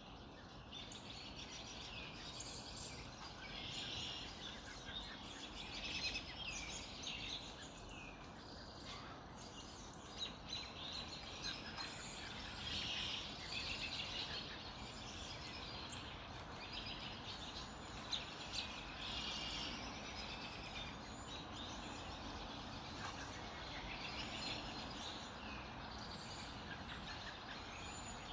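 Many small birds singing and chirping together in a dawn chorus, overlapping trills and chirps throughout, over a steady low background hiss.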